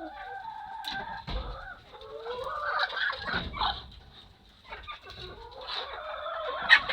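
Chickens clucking and calling, with a sharp click near the end.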